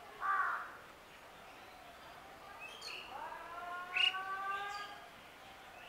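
Bird calls: a short, loud falling call right at the start, then a few sharp chirps and a long whistled call that rises and then holds steady for about two seconds.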